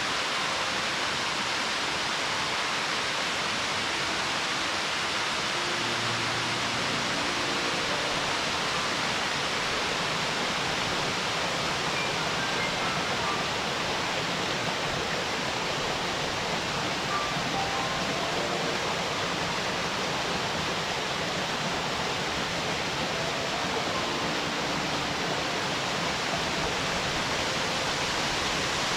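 Mountain waterfall: water falling and splashing into its pool in a steady, even rush.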